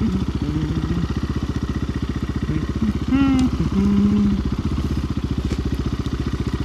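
RXB250XL dirt bike's single-cylinder 250 cc engine running steadily at low revs, its firing pulses even. A brief high pitched glide sounds about three seconds in.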